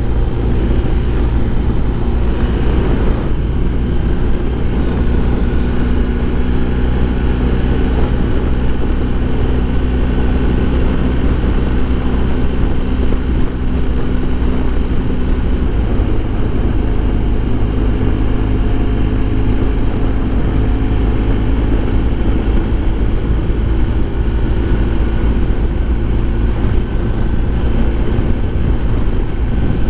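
BMW R1250 GS Adventure's boxer-twin engine running steadily under way, with low wind rush on the rider's microphone. The engine note changes about halfway through.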